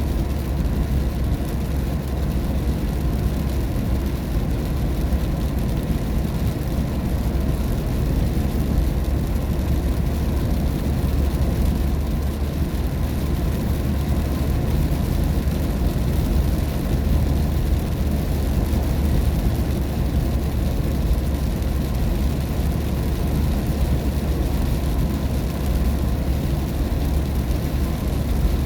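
Steady road noise inside a moving car driving in the rain: a deep, even rumble with a hiss of tyres on the wet road and rain over it.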